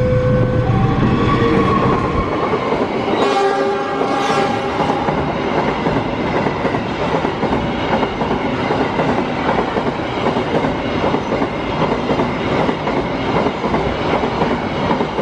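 A diesel-hauled cement freight train passing close by. The locomotive horn sounds at the start and again about three seconds in, then the loaded flat wagons roll past with a steady rumble and the rhythmic clatter of wheels over the rail joints and the crossing.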